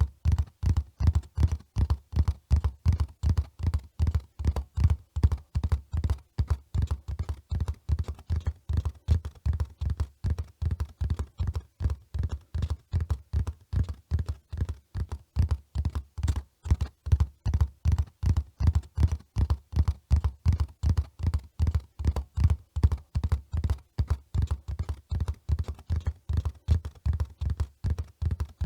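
Hoofbeats of a running horse: a quick, even rhythm of dull, heavy thuds that keeps going without a break.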